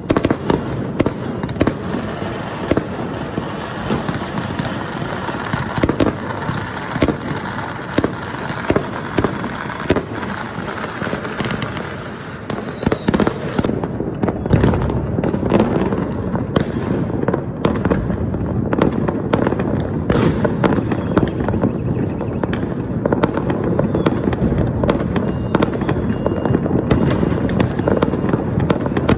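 A dense, unbroken barrage of firecrackers and fireworks going off. Countless overlapping sharp bangs and crackles run together without a pause.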